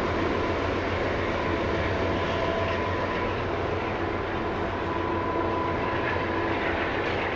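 Long CP coal train rolling past: a steady rumble of wheels on rail with a thin high tone held over it.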